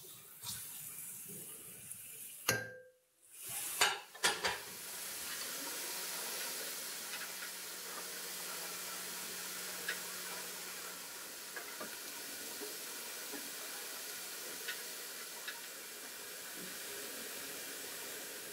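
Diced onion, grated carrot and chopped mushroom stems frying in sunflower oil in a frying pan: a steady sizzle with occasional small pops. In the first few seconds a spoon scrapes and knocks against the pan as the mix is stirred.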